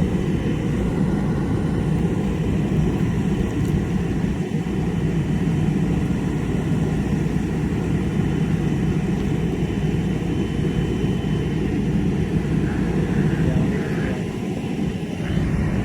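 Steady low rumbling drone of a large engine running without change.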